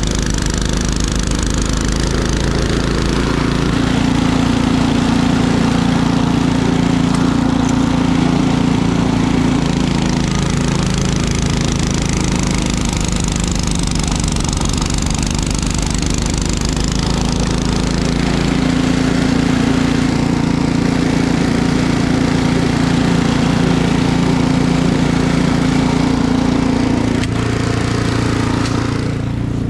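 Small gasoline engine running steadily under varying load, its note strengthening and easing for several seconds at a time, over a steady rushing noise.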